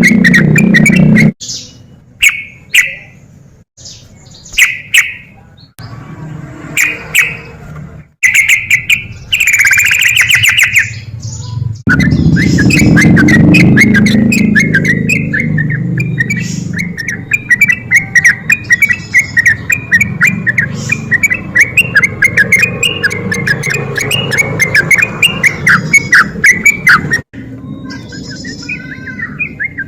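Yellow-vented bulbul (trucuk) singing loud, separate whistled phrases. A little before halfway it breaks into a long, fast run of repeated notes (the 'ropel' trill fanciers prize), which stops abruptly near the end. The recording is spliced, with sudden cuts between phrases and a low rumble underneath.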